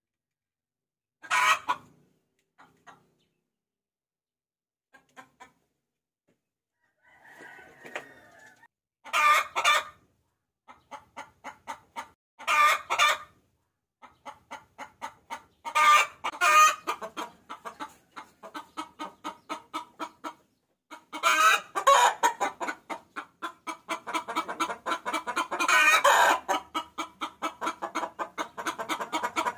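Hen cackling: a few separate loud calls at first, then a run of quick clucks at about three a second from about ten seconds in. Near the end it grows denser and louder, with loud cackles breaking in. This is a lure call used to draw roosters.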